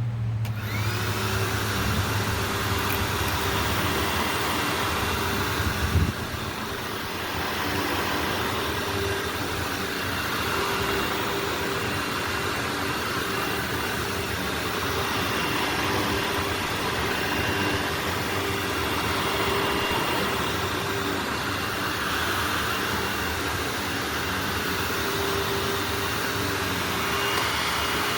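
Hoover WindTunnel upright vacuum cleaner switched on, its motor whine rising as it spins up, then running steadily with one sharp knock about six seconds in. Right at the end it is switched off and its whine falls as the motor winds down.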